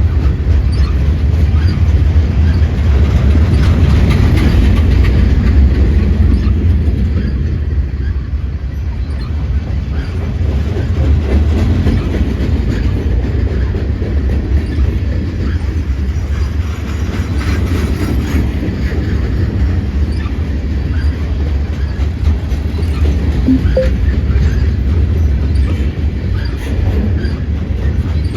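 Norfolk Southern freight train loaded with pipe rolling past, with a steady rumble of car wheels on the rails.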